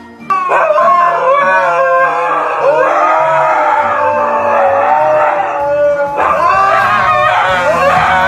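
A dog howling in long, wavering notes that start suddenly just after the beginning, with a brief break about six seconds in.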